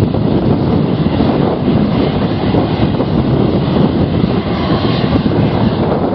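Airliner engines running as an aircraft passes, heard through heavy storm wind buffeting the microphone, with a faint engine whine coming up about five seconds in.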